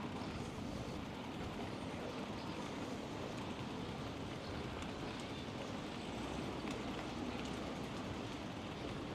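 Steady rolling noise of a bicycle in motion: tyres on pavement and wind on the microphone, with a few faint ticks.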